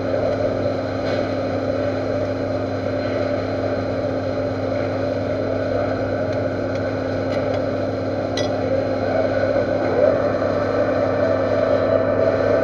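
Metal lathe running steadily with a constant machine hum, growing slightly louder in the second half.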